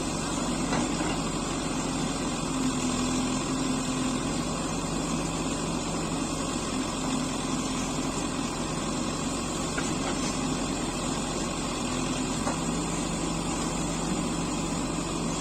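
Diesel engines of a backhoe loader and farm tractors running steadily, a continuous even hum.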